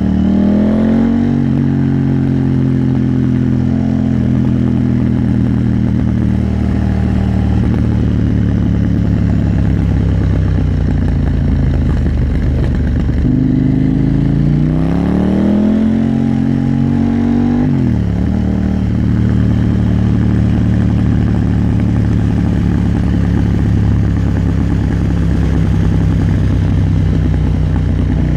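KTM 890 Duke R parallel-twin engine riding at a steady pace, with the revs climbing briefly at the start and again about halfway through, where they rise through two pulls before falling off sharply.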